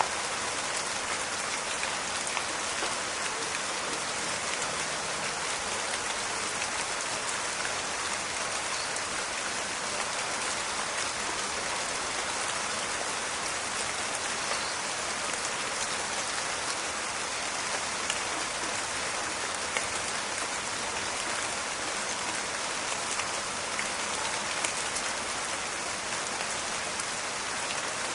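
Steady rain falling in a forest, a dense crackle of drops hitting leaves and the ground, with scattered louder individual drops.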